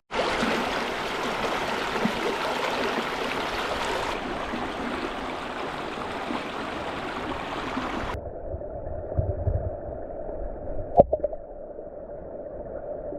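Mountain stream rushing steadily over rocks. About eight seconds in the sound turns duller and lower, and a single sharp click comes about eleven seconds in.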